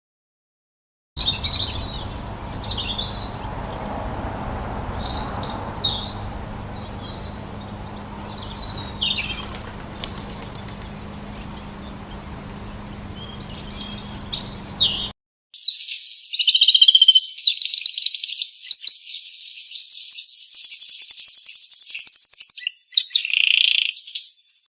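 Bird calls in spliced clips: scattered high chirps over a steady background hiss, then, after a sudden cut, a louder high song with rapid trills, ending in a short separate call.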